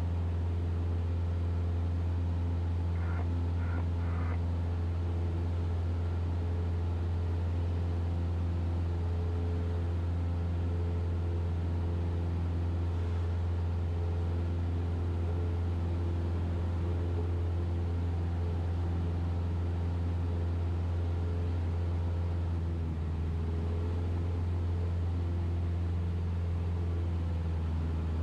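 Cessna 172RG's four-cylinder Lycoming O-360 engine and propeller running in flight, a steady low drone. Three short faint blips sound about three to four seconds in.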